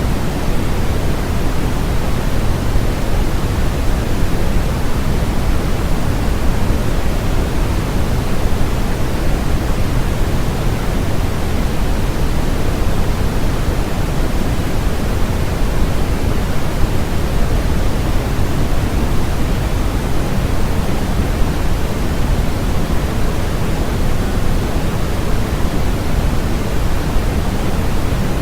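Continuous generated noise of the kind sold as white noise for sleep: a steady, unchanging hiss, fuller in the low end than in the highs, with no rhythm or events.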